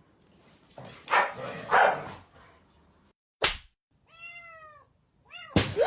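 A cat meowing: one clear, drawn-out meow rising and falling in pitch about four seconds in, then a shorter one near the end. Before these come two loud, rough, noisy sounds and a sharp click.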